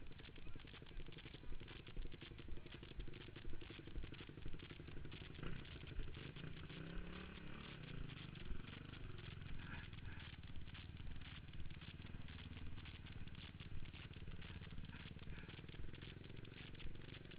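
Motocross dirt bikes running on the track, their engine pitch rising and falling as they ride past about midway. Over it runs a constant dense crackling rattle.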